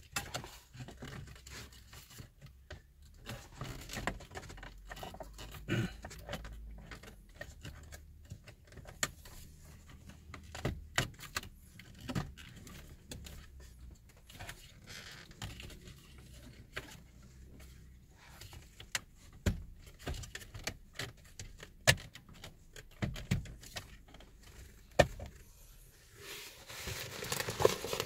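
Hands handling small hard parts: irregular sharp clicks, taps and knocks, with a longer rustling clatter near the end.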